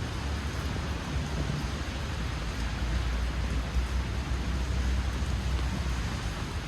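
Steady rain hissing on the street, with a low rumble underneath that swells for a couple of seconds in the middle.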